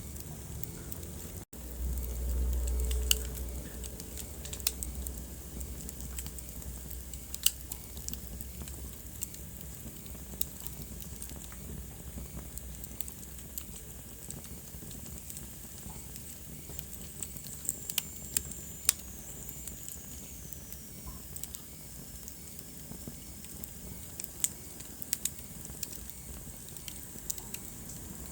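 Wood fire burning in a fireplace, crackling with sharp scattered pops over a low rumble of flame. The sound drops out for an instant about a second and a half in, then the low rumble swells for a couple of seconds; later a faint high whistle slides down in pitch.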